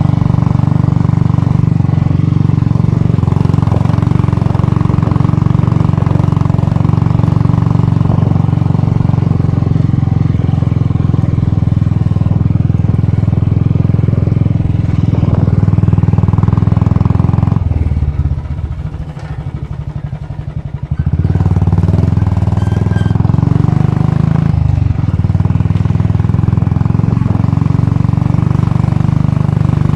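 Royal Enfield Bullet's single-cylinder engine running steadily under way. It eases off and goes quieter for about three seconds just past the middle, then picks up again.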